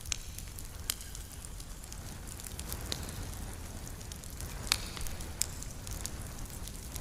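Wood campfire crackling, with irregular sharp pops over a steady low rumble; the loudest pop comes about two-thirds of the way through.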